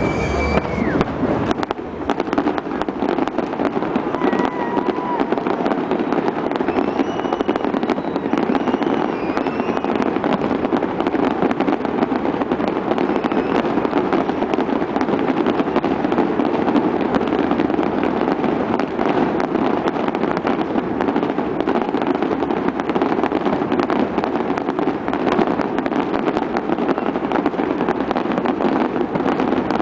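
Aerial fireworks display: continuous dense crackling and popping of many shells bursting at once. A few short whistles rise and fall in the first ten seconds.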